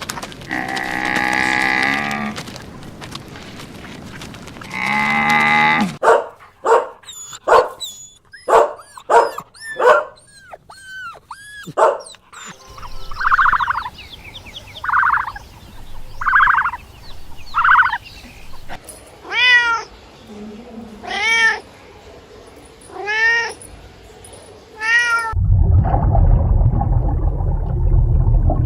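A series of cat meows from several cats in turn. Two longer meows come first, then a quick run of short, high kitten mews, then two sets of separate meows with a falling arch. Near the end the calls give way to a steady low rumbling noise.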